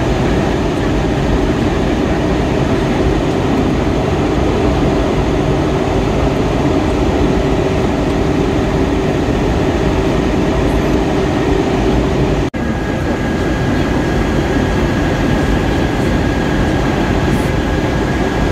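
Steady cabin noise inside an Airbus A320-232 in flight: the continuous rush of airflow and engines, with faint steady tones running through it. The noise drops out for an instant about twelve seconds in and then carries on.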